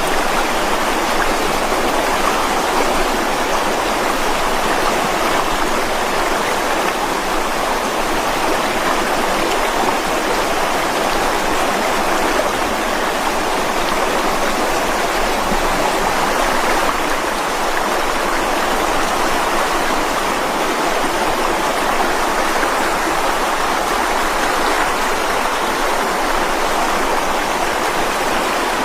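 Mountain stream flowing steadily over rocks, an even rushing of water with no breaks.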